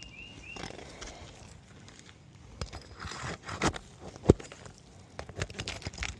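Shingles being pried loose and unsealed: scraping and crackling with several sharp tool knocks, the loudest about four seconds in, as the shingles tear and come apart. A bird chirps a few quick notes at the very start.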